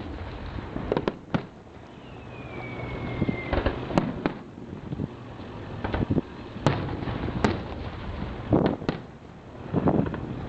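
Fireworks going off in irregular sharp bangs, about nine in all, with a single whistle falling in pitch about two seconds in.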